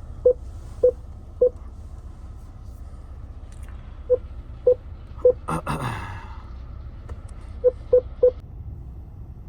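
Short, single-pitched electronic beeps in runs of three or four, about half a second apart, over a steady low rumble. About halfway through, a sharp sound sweeps quickly down in pitch.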